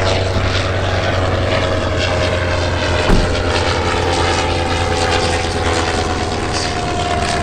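Propeller aircraft engine running steadily, its pitch drifting slightly as it passes, with a brief thump about three seconds in.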